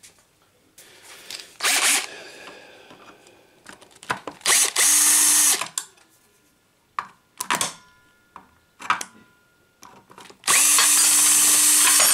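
Power drill/driver run in two short bursts at a steady speed, the second one longer, with knocks and clicks of metal parts being handled in between.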